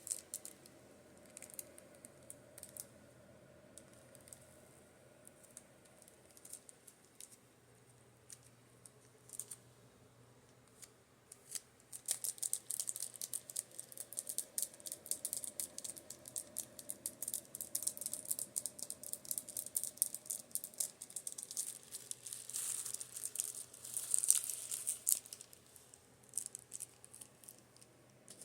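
Makeup brushes being tapped: scattered light taps at first, then about twelve seconds in a fast, dense run of taps that lasts until near the end. A rotating fan hums steadily underneath.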